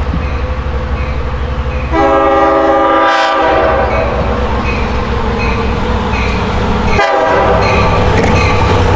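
The Nathan K5LLA chime horn of an LIRR DM30AC dual-mode locomotive sounding a chord about two seconds in and again about seven seconds in. Underneath runs the steady low rumble of the train's diesel engine.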